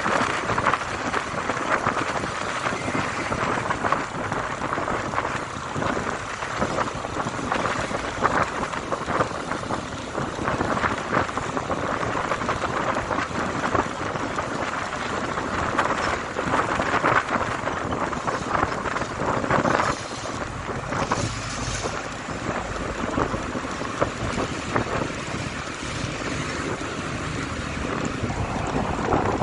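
Wind rushing over the microphone of a motorcycle on the move: a steady, gusting noise with road noise underneath.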